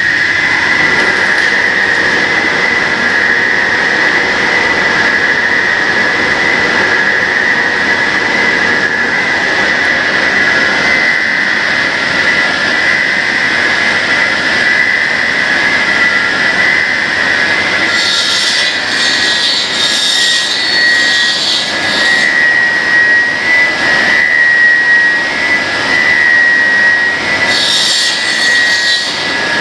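Cutting machine for extruded pet treat sticks running, with a steady high-pitched whine over machine noise. Two stretches of hiss join in: one lasting several seconds past the middle, and a shorter one near the end.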